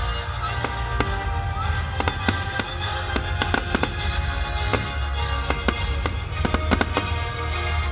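Fireworks going off in quick irregular succession, many sharp bangs and crackles, over music played for the display.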